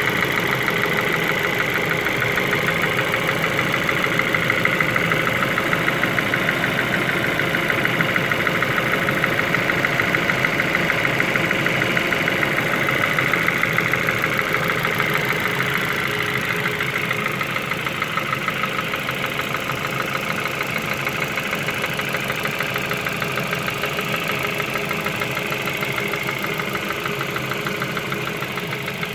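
Ford Focus Mk2 engine idling with a fast, even knock, the engine knock that the owner is showing. It gets slightly quieter about two-thirds of the way through.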